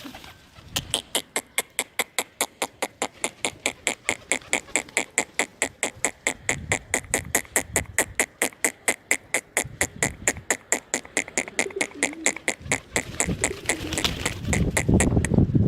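Rapid, regular clicking, about four sharp clicks a second, made to call pigeons in to feed. A louder, lower rustling sound builds over the last couple of seconds.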